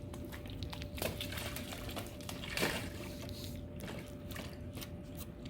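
Faint splashing and trickling water as a wet dog plays in a water pad, with scattered small splashes and a slightly louder one about two and a half seconds in.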